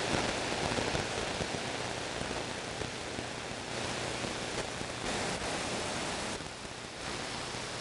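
CB radio receiver static: a steady hiss of band noise from the speaker between transmissions, swelling and easing a little in level, with a faint low hum under it.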